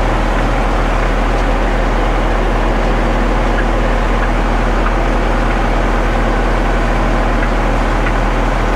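Concrete mixer truck's diesel engine running steadily with an even, unchanging hum.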